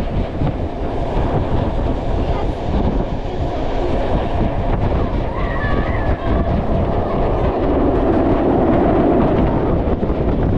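Passenger train carriage running along the track, heard through an open window: a steady rumble of wheels on rails with frequent small knocks, growing a little louder near the end.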